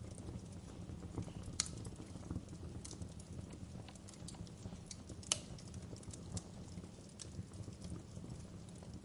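Wood fire crackling in a fireplace: a steady low rumble of burning with irregular sharp pops and snaps, the loudest about a second and a half in and again just past five seconds.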